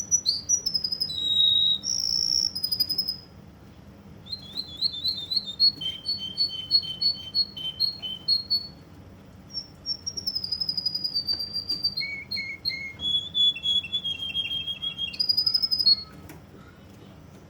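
Russian singing canary singing: phrases of rapidly repeated high notes and trills, each phrase on its own pitch, with short pauses between them; the song stops about a second and a half before the end.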